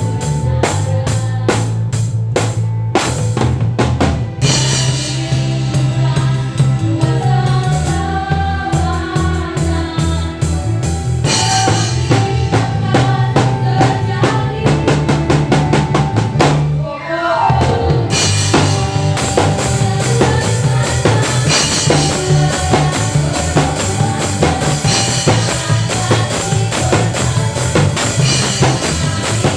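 A live worship band plays during a sound check: a drum kit keeps a steady beat over bass and melody instruments. A little past the middle the drums drop out for about a second under a falling glide, then the beat comes back in.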